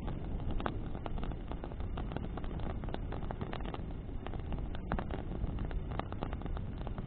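Bonfire of branches burning in the wind: a steady low rush of flame and wind, with many sharp crackles and pops from the burning wood throughout.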